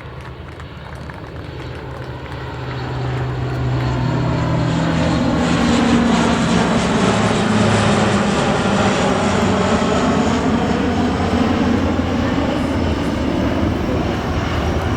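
Lockheed C-130J Hercules four-engine turboprop flying past low. The propeller drone grows louder over the first few seconds, then drops in pitch as the aircraft passes.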